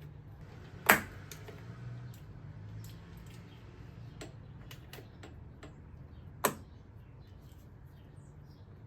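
Scattered clicks and knocks of hand tools and parts being handled in an engine bay during teardown, with two louder knocks, one about a second in and one about six and a half seconds in, over a low steady hum.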